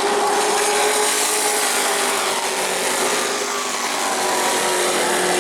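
A pack of short-track race trucks running at full throttle, their engines blending into a loud, steady buzzing drone with a slowly shifting pitch.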